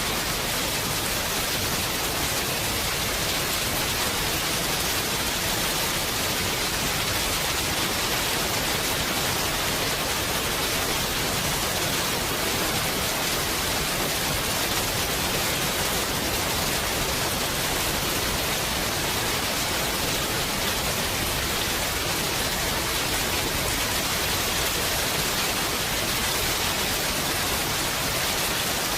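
Heavy rain falling steadily, a dense, even hiss with no thunder in this stretch.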